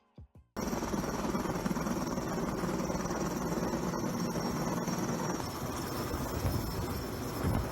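Helicopter running: steady engine and rotor noise that starts abruptly about half a second in, after the last notes of a guitar piece.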